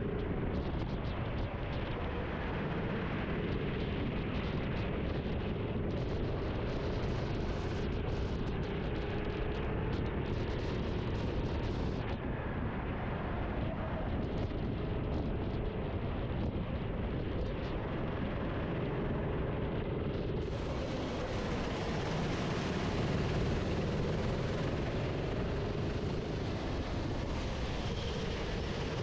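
Racing kart engine running on track, its pitch rising and falling with the throttle through the corners, under heavy wind and road noise on the onboard microphone.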